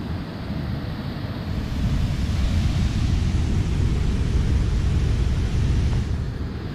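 Wind buffeting the microphone, a gust building about two seconds in and easing off near the end.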